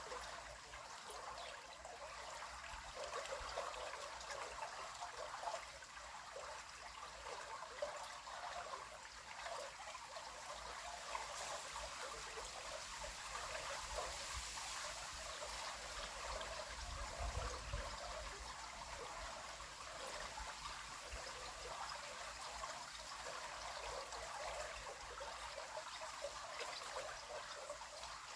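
River water flowing and trickling in a steady, babbling rush, with a brief low rumble about seventeen seconds in.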